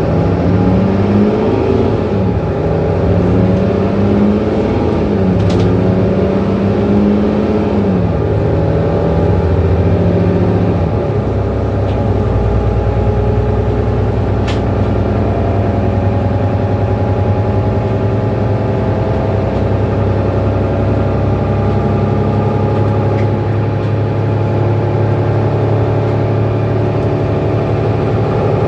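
Mercedes-Benz Citaro C2 city bus engine pulling under load. Its pitch climbs and drops back twice over the first ten seconds or so, like gear changes as it gathers speed, then it runs steadily.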